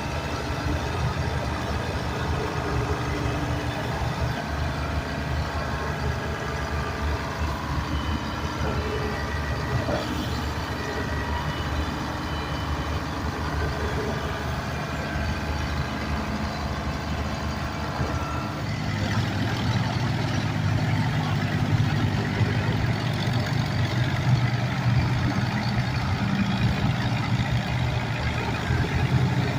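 Heavy machinery engine running steadily, with a low hum. About 19 seconds in it gets louder and rougher.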